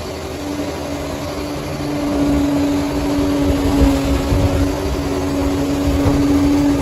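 Bulldozer's diesel engine running under load, a low rumble with a steady pitched hum over it that gets a little louder about two seconds in.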